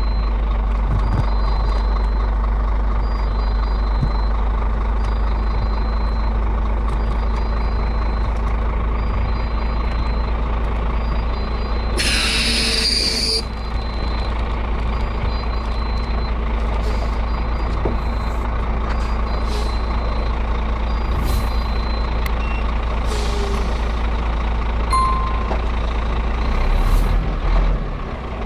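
Scania G440 truck running loaded downhill with a steady low drone, while a high warning beep repeats about once a second. About twelve seconds in, a loud burst of air hiss lasts a second and a half, and shorter air hisses follow later.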